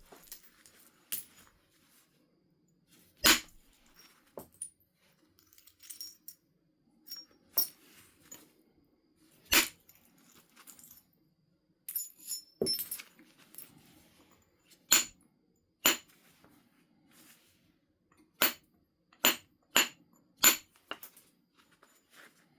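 Flint nodule being struck in percussion flaking, each blow a sharp click as a flake comes off. There are about eight loud strikes at irregular intervals of several seconds, coming quicker near the end, with lighter taps and ticks between them.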